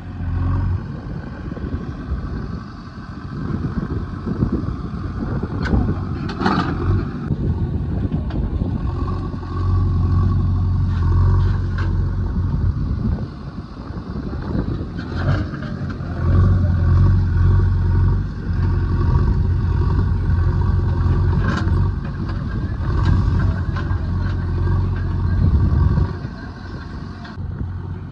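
JCB 3DX backhoe loader's diesel engine running while the machine works, its note swelling several times as load comes on, with a few short metallic clanks.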